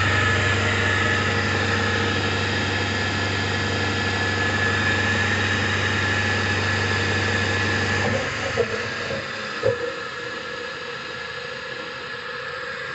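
A 4 kW asynchronous electric motor driven by a homemade frequency converter, running with a steady low hum and a high steady whine. About eight seconds in, the low hum cuts out and two sharp clicks follow, leaving a quieter hiss.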